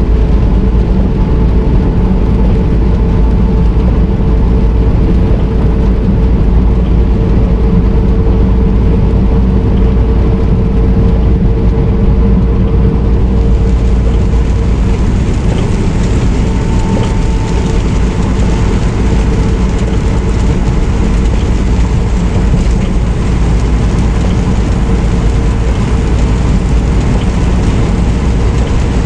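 Semi-truck driving, a loud steady drone of engine and road noise with a couple of steady tones in it. A brighter hiss comes in about halfway through.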